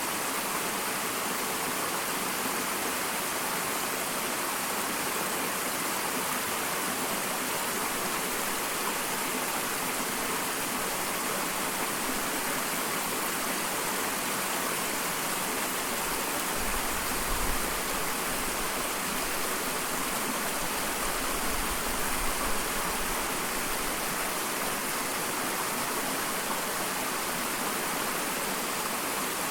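Small waterfall splashing in a steady, even rush of water. Two brief low rumbles sound under it, about halfway through and again a few seconds later.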